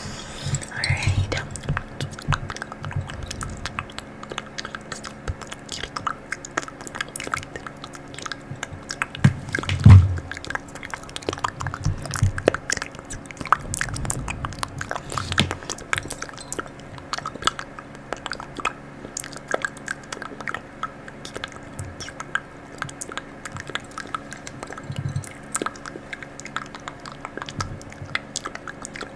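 Close-miked ASMR sound of dense small clicks and crackles, with one louder low thump about ten seconds in.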